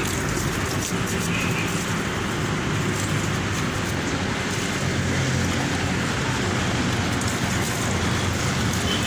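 Water spraying steadily onto a split air conditioner's outdoor unit, an even rushing hiss with a low hum underneath as it washes the coil and fan.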